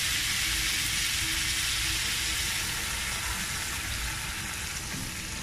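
Chicken frying in a wide metal wok: a steady sizzling hiss that eases a little in the second half as water is poured in from a jug.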